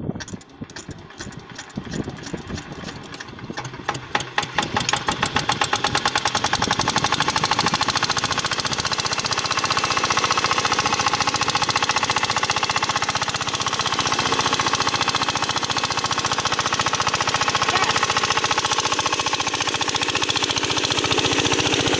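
8 hp single-cylinder diesel water pump engine starting: slow, uneven firing strokes speed up over the first five seconds or so, then it settles into steady fast running with a rapid, even beat.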